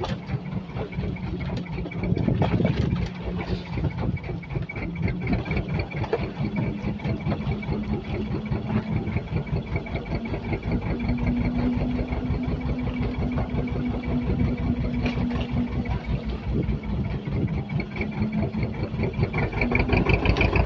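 Boat engine running steadily with a fast chugging beat and a steady hum; its note rises slightly about halfway through and drops back a few seconds later.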